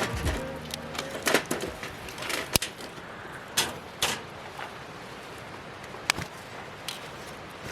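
A few separate sharp knocks and clicks, spaced a second or more apart, over a steady low background: camp cooking gear being handled.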